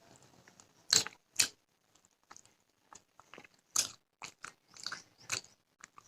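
Close-miked eating: a person biting and chewing food, a series of short sharp crunches, the loudest about one second and a second and a half in, more near four and five seconds.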